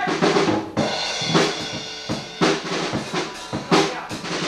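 Drum kit playing, with bass drum and snare hits and cymbals ringing between the strokes.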